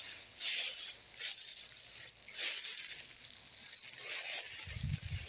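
Outdoor ambience: a steady high-pitched hiss with rustling noises swelling up about once a second, and a low rumble near the end.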